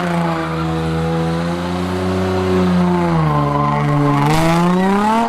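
Car engine held at high revs during a burnout or drift, with tire noise underneath; the pitch sags about three seconds in, then climbs again near the end.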